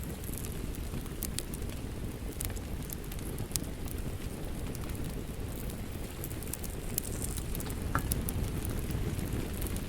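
Wood fire crackling with scattered sharp pops over a steady low rumble of rain.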